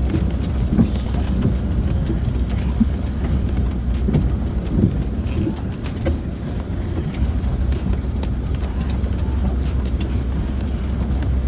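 Land Rover Discovery 4 heard from inside the cabin, driving slowly up a rough, rocky track: a steady low drone from the drivetrain and tyres, with scattered small knocks and rattles.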